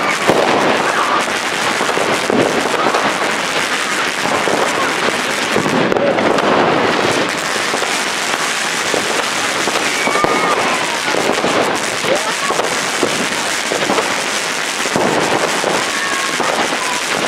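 New Year's Eve fireworks and firecrackers going off in dense, unbroken crackling and popping, at a steady loud level with no pause.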